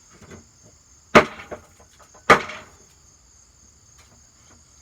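Two hammer blows on a ceiling fan's blade arm, about a second apart, each a sharp bang with a brief ringing tail. Crickets chirp steadily throughout.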